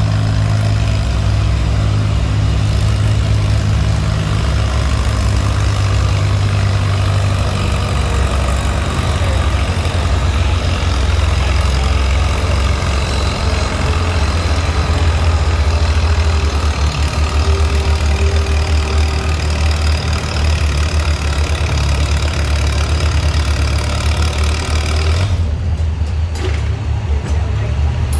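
Antique tractor engine running steadily with a deep, even hum, its pitch holding level throughout.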